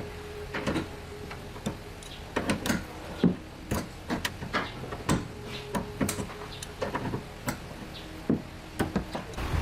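A run of irregular knocks and clicks, a few every second, over a steady low hum.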